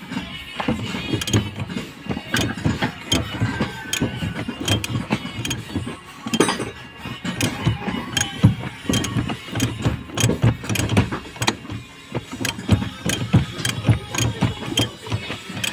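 Hand tools on the steering rack under a car: a steady run of irregular metallic clicks and knocks, several a second, as the rack-and-pinion assembly is worked loose.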